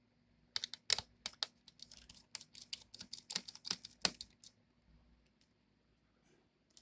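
Small screwdriver backing a tiny screw out of a laptop cooling fan: a run of quick, irregular light clicks for about four seconds, then it stops.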